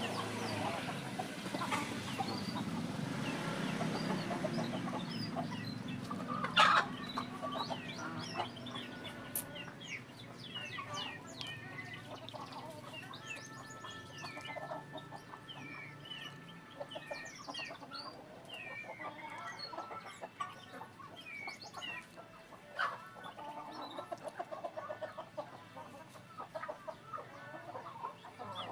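Chickens clucking, with many short, high chirping calls throughout and a single sharp knock about a quarter of the way in.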